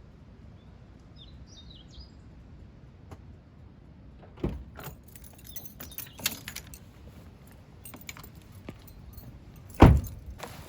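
A bird chirps briefly, then comes a run of sharp clicks and clinking clatter from things being handled, with one heavy thump near the end.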